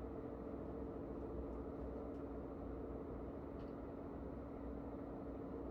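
KTX high-speed train running at speed, heard from inside the passenger car: a steady rumble with two constant hum tones.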